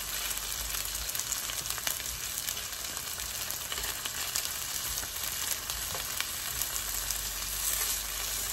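Chicken pieces frying in hot sesame oil in a pan over a high flame, a steady sizzle with many small crackles as they brown.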